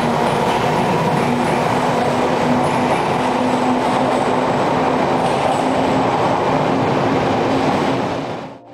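Taiwan Railways EMU100 electric multiple unit running, a steady low hum from its DC series-wound traction motors over the rumble of wheels on track. The sound fades out near the end.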